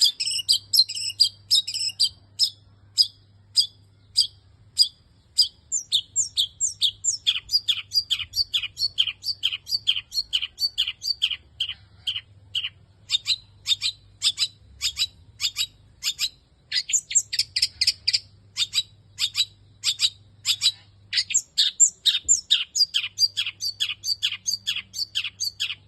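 Long-tailed shrike (cendet) singing a fast, unbroken string of short, sharp notes, about three to four a second, many sliding down in pitch, in a song that mimics kingfisher and sparrow calls.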